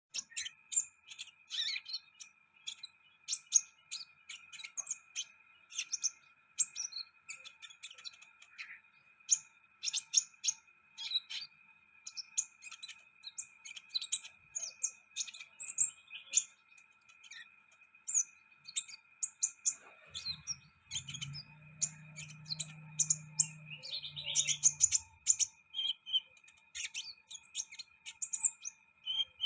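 Sunbird chirping rapidly in short, high, sharp calls, over a faint steady high whine. A low hum comes in about two-thirds of the way through and fades after a few seconds.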